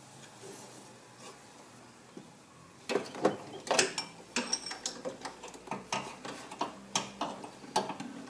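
A wrench clicking and knocking on metal as it works at a stubborn alternator mounting bolt: a quick, irregular run of sharp clicks, a few a second, starting about three seconds in.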